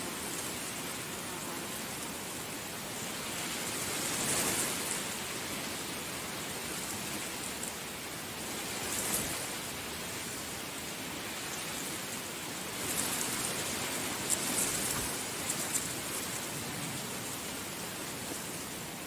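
Heavy rain falling steadily, swelling in strength a few times: about four seconds in, about nine seconds in, and again between thirteen and sixteen seconds, where sharper splashing crackles come through.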